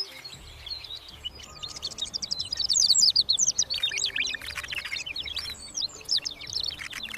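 Birds chirping in a rapid, overlapping flurry of short downward-sweeping notes that builds up a second or two in.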